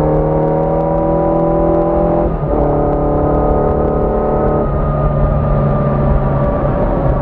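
1981 Yamaha XJ650 Maxim's air-cooled inline-four engine pulling the bike along, its pitch rising slowly. About two seconds in the sound dips briefly at a gear change, then it runs on steadily, with another change in the engine note about four and a half seconds in.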